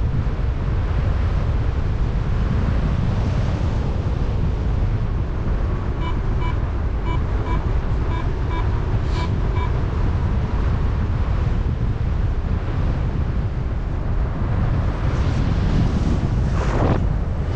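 Heavy wind rushing over the microphone of a paraglider in flight. In the middle, for about four seconds, a flight variometer gives short beeps, about two a second, the tone it sounds while the glider climbs in lift.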